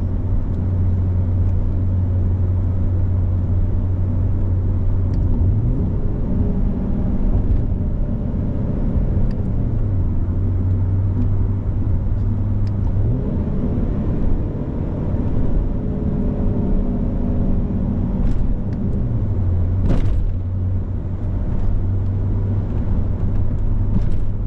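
Alfa Romeo 147's 2.0 Twin Spark four-cylinder engine heard from onboard while driving briskly, its pitch climbing and falling back several times as it accelerates and slows through the gears of the Selespeed paddle-shift gearbox. A few sharp clicks or knocks stand out, the loudest about twenty seconds in.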